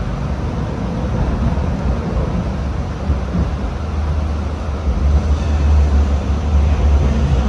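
Hong Kong Light Rail Phase 3 car running, heard from inside: a steady low rumble from the motors and the wheels on the track, growing louder about five seconds in.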